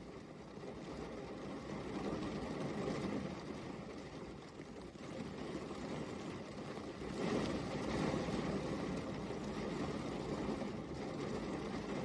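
Steady rain falling, a continuous hiss that swells louder about seven seconds in.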